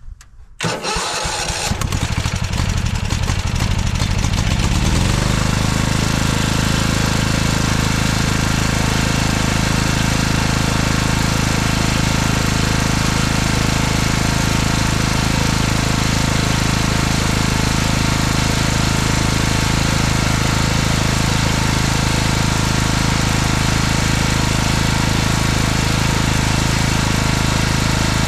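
Weed Eater lawn tractor's small engine starting cold off a jump pack: it catches about half a second in, runs rough for a few seconds, then settles into steady running.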